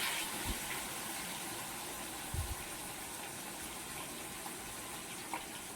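Fish frying in hot oil: a steady sizzle with a few sharp pops of spattering oil.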